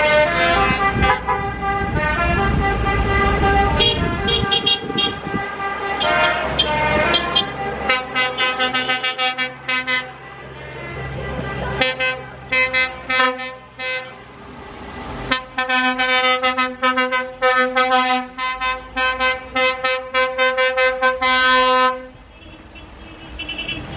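Vehicle horns tooting over and over in short rapid blasts at several pitches, from trucks and tractors in a parade. A low engine rumble is heard under the horns for the first few seconds.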